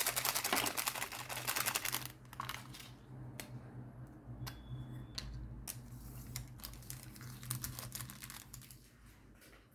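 Handling of diamond-painting crystals in their small plastic bags and containers: a dense clicking rattle for about two seconds, then scattered single clicks and taps.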